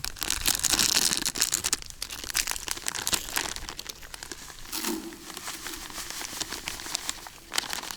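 A packet being crinkled and rustled, likely torn open, as garlic bread for fishing groundbait is got out. The crackling is loudest in the first two seconds and goes on more softly after.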